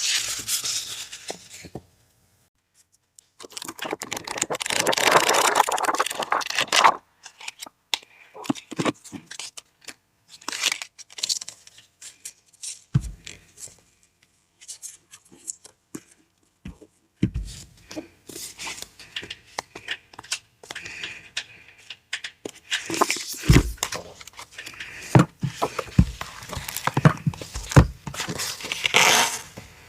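Paper and packaging being handled during an unboxing: rustling, crinkling and tearing, with many small clicks and taps and several soft thumps as items are set down. It stops for about a second and a half early on, then resumes.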